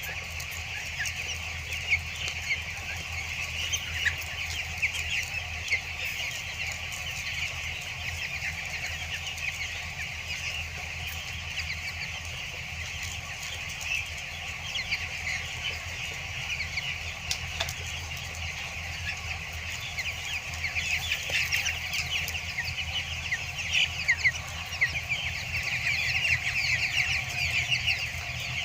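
A large flock of two-week-old broiler chicks peeping continuously, many short high chirps overlapping, over a steady low hum.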